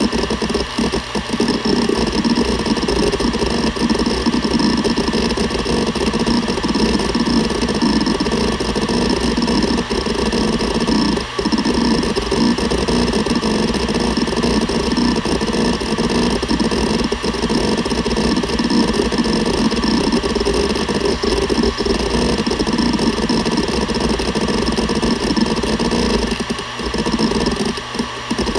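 Seagate Barracuda ES.2 ST31000340NS hard drive running, its 7200 rpm spindle humming steadily under a dense, continuous chatter of head seeks. The chatter briefly drops out about 11 seconds in and a couple of times near the end.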